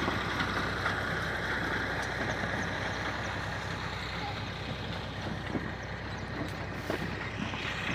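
Tractor engine running steadily while it pulls a potato digger, with a noisy mechanical haze over the hum and a few faint clicks.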